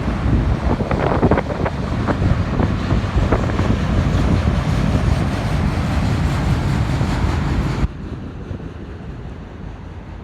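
BNSF autorack freight train rolling past with a heavy low rumble, a few sharp clicks near the start and wind buffeting the microphone; the sound drops suddenly to a quieter rumble near the end.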